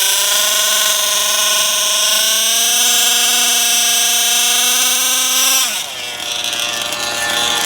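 Gas-powered RC car's two-stroke engine held at high revs, a steady high whine that climbs slightly, then drops sharply to a low idle about six seconds in.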